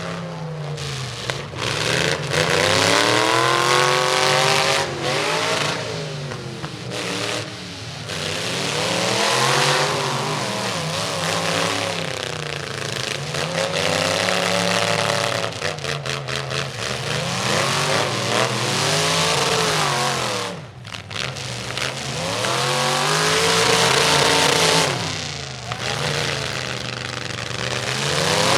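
Demolition derby truck engines revving hard, the pitch climbing and dropping again and again every few seconds, with more than one engine at once.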